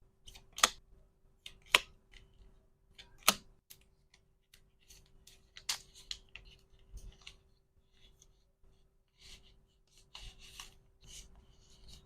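Close-up handling sounds from packing small items: a few sharp, separate clicks of plastic pieces, then a soft crinkly rustle near the end, over a faint steady hum.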